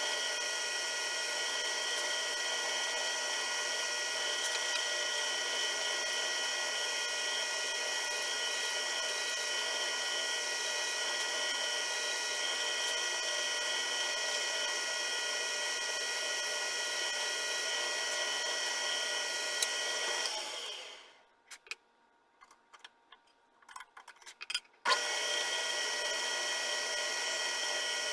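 Small machine tool's motor running with a steady whine, spinning down about two-thirds of the way through. A few light clicks and taps follow in near silence, then the machine is running again suddenly about four seconds later.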